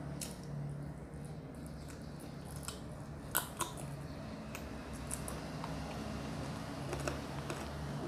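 Close-up mouth sounds of eating a piece of cooked chicken by hand: wet chewing and biting, with two sharp clicky bites a little past the middle. A steady low hum runs underneath.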